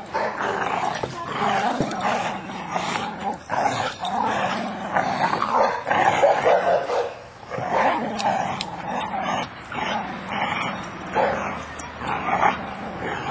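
Dogs growling and barking almost without a break, with a short lull about seven seconds in.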